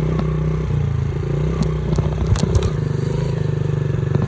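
Motorcycle engine running at a steady pace while riding, with a few sharp clicks and rattles about two seconds in.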